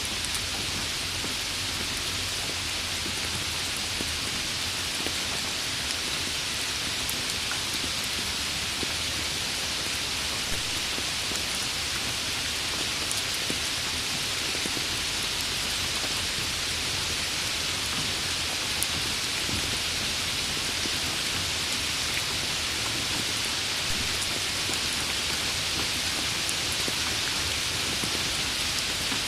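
Steady rain falling on a surface, a continuous even hiss of many drops with faint scattered drop ticks.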